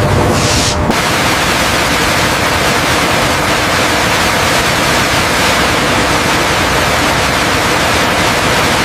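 A loud, steady rushing hiss with no distinct tones or knocks, spread evenly from low to high pitch; it fills in fully about a second in.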